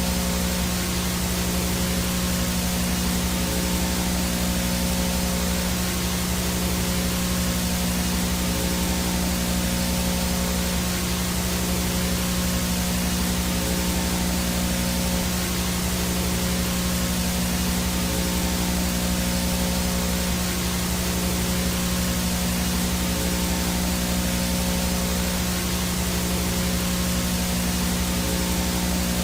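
VHS no-signal static: a steady hiss of white noise with a low electrical hum under it and a thin high-pitched whine on top, unchanging.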